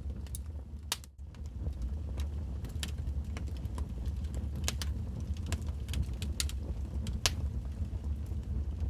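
Wood fire burning in a fireplace: irregular sharp crackles and pops over a steady low rumble of the flames, with a brief drop in sound about a second in.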